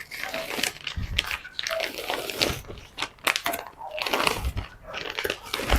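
Irregular rustling, crinkling and small clicks and knocks of materials being handled.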